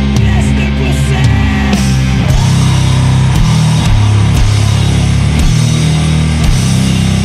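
Sludge metal: heavily distorted, down-tuned guitars and bass holding low chords over a slow drum beat with crashing cymbals.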